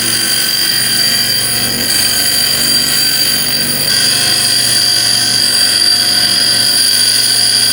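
A power tool running steadily, with a high whine over a loud hiss.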